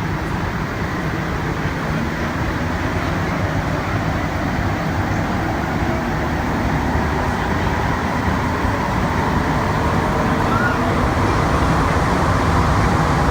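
Rubber-tyred Azur MPM-10 metro train running, heard from inside the car: a steady rumble and hiss of tyres and traction motors, growing gradually louder.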